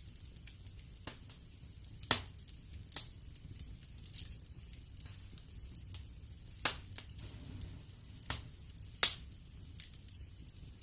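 Wood fire crackling in a fireplace: irregular sharp pops and snaps over a low steady hiss, with the loudest pop about nine seconds in.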